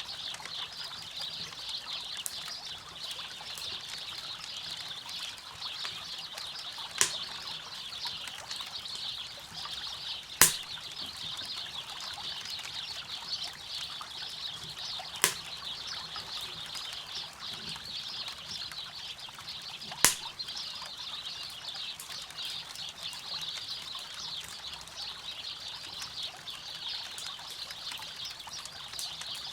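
A river flowing steadily, with a campfire crackling beside it and four sharp pops from the fire, the loudest events.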